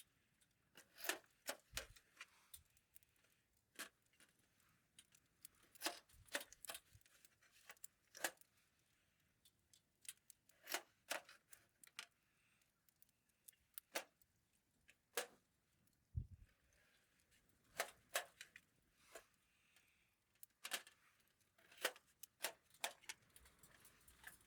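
Faint, irregular sharp clicks and light clinks, spaced a second or so apart, with a few soft low thumps among them.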